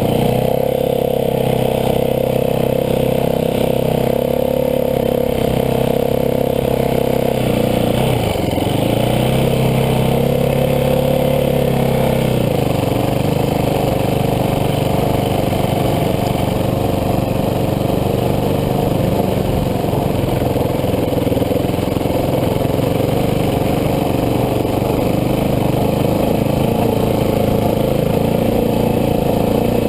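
Dirt bike engine running steadily under way, its pitch dipping briefly about eight seconds in and then picking back up. The note changes again about twelve seconds in.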